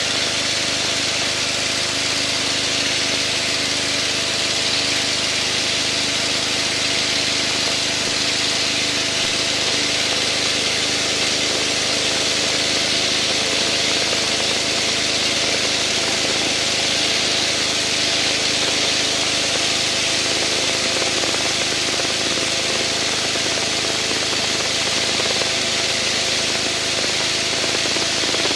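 Aircraft engine droning steadily in the cockpit under a broad airflow hiss. A few tones shift slightly in pitch partway through, as with small power changes in formation.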